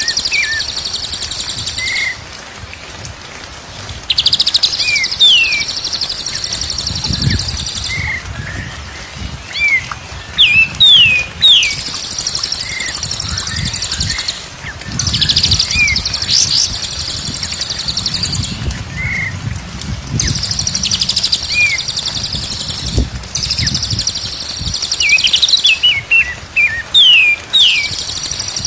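White-rumped shama (murai batu) singing: short clear whistles, many sliding down in pitch, over stretches of a dense high trill that starts and stops every few seconds.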